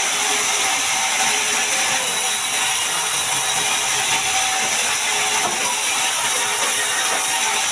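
Sawmill bandsaw running steadily through a large mahogany log, a constant loud hiss of machine and blade noise with a faint steady whine.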